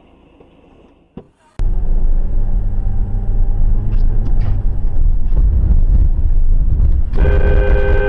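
Loud, steady low rumble of a road vehicle, starting suddenly about one and a half seconds in. Near the end a horn sounds and is held for more than a second.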